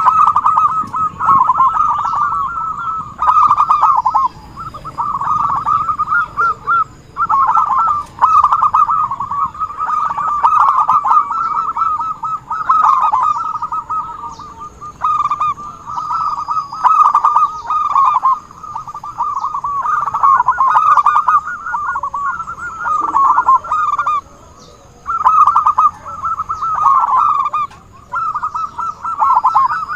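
Zebra doves (perkutut) calling: rapid staccato cooing trills, near-continuous in runs of a few seconds broken by short pauses.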